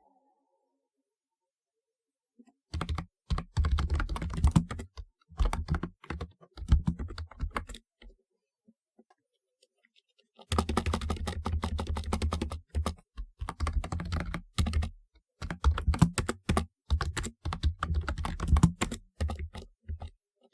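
Fast typing on a typewriter-style keyboard, a rapid clatter of keystrokes. It starts about three seconds in with short bursts, stops for a couple of seconds near the middle, then runs on in longer stretches.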